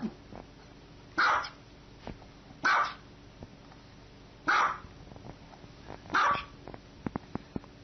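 Small white dog barking four times, short sharp barks about one and a half seconds apart, with a few faint clicks near the end.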